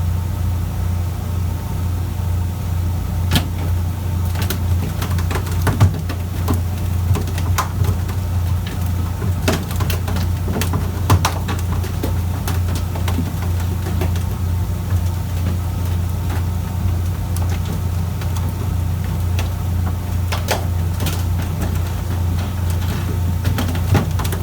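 Fishing boat's engine running steadily with a constant low hum, and a few sharp knocks scattered through.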